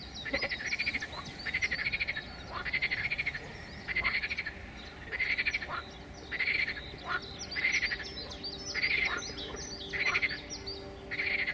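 Forest wildlife calls: a pulsed, trilling call repeats about once a second, with quick high chirps over it.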